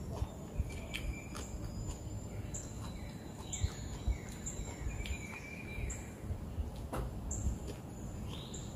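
Birds chirping in short calls over a steady low rumble, with a few sharp clicks from close by as leafy salad is chewed and picked from a glass bowl by hand.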